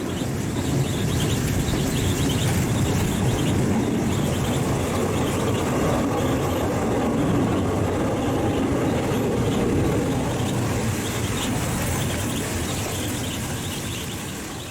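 Train running on rails, a steady running noise that fades out near the end.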